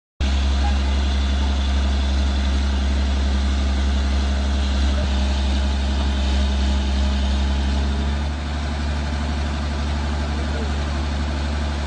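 Heavy engine idling steadily with a deep, even hum; about eight seconds in the note shifts slightly and gets a little quieter.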